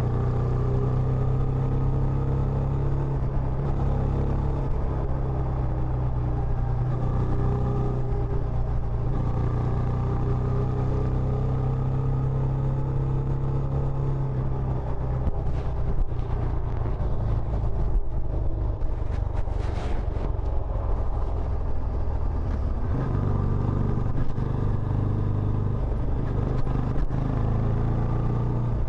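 Benelli Imperiale 400's single-cylinder engine running steadily through its stock exhaust, a constant low rumble that dips for several seconds in the middle before settling back.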